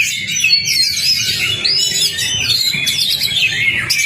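Oriental magpie-robin (kacer) singing a fast, unbroken stream of varied whistles, slurred notes and chirps.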